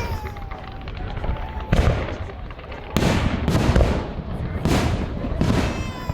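Fireworks shells bursting: about six booms, each trailing off, coming closer together from about three seconds in.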